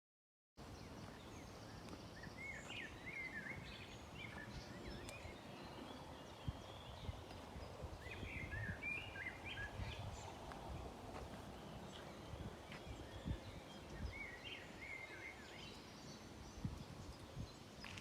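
Small birds singing short, quick chirping phrases several times, over a steady outdoor background hiss with scattered low thumps.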